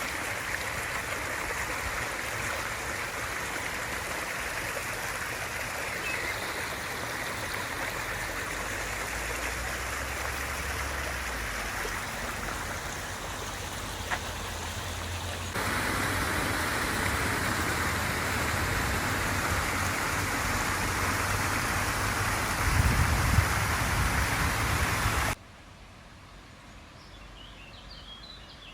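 Rushing water: a steady, even rush that jumps louder about halfway through and cuts off abruptly a few seconds before the end, leaving only a faint hiss.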